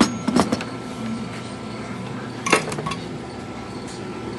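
Hard objects clinking and clattering in two short clusters, one at the start and one about two and a half seconds in, over a steady low hum.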